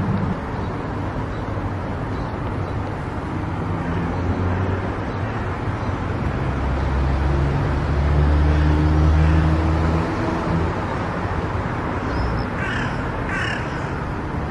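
Car driving at highway speed on an expressway: steady road and tyre noise with a low drone, a little louder about two-thirds of the way through. Near the end come two short, higher-pitched calls.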